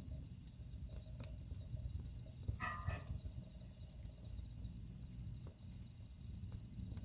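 Wood fire burning in a fireplace: a low steady rumble of flames with scattered crackles and pops. The loudest cluster of pops comes about two and a half to three seconds in.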